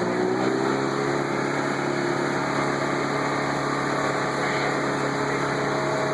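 Tour boat's motor running steadily at low speed, with a short shift in its pitch about a second in.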